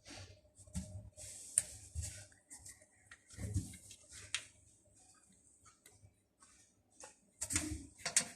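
Cats eating: irregular small clicks and crunches, with a short lull just past the middle and a busier spell near the end.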